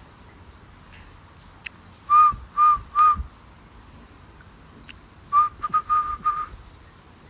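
A person whistling short, steady notes to a laughing kookaburra, trying to set it laughing: three notes about half a second apart, then a quick run of about six.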